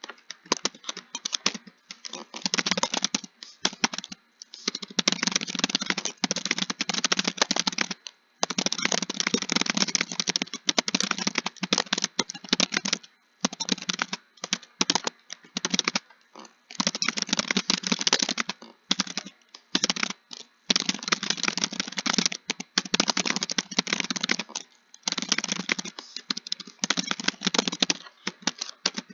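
Fast, continuous typing on a computer keyboard: dense runs of key clicks a few seconds long, broken by short pauses.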